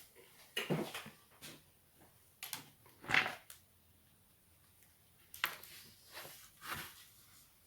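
Several short, separate clicks and scrapes of laptop plastic parts being handled and pried apart during keyboard removal from the upper case.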